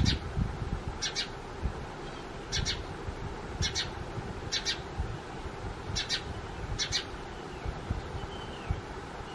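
House sparrow chirping: a short, sharp cheep repeated about once a second, seven times, over a low rumble.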